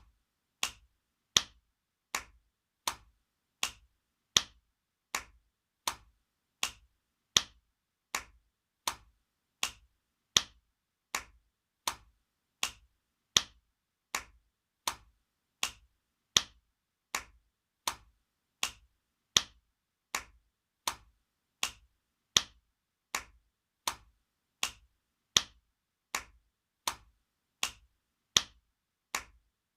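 Spanking sound effect: sharp hand slaps on skin, repeating evenly about every three quarters of a second, some strikes louder than others.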